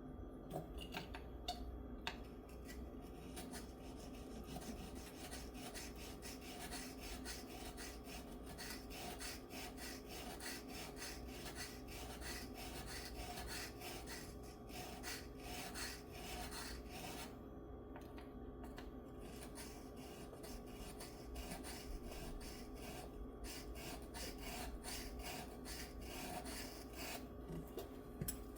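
Steady run of rapid hand-worked abrasive strokes rasping back and forth over the metal frets of an electric guitar, pausing briefly about 17 seconds in and again near 23 seconds. The frets are being worked down to cure fret clank.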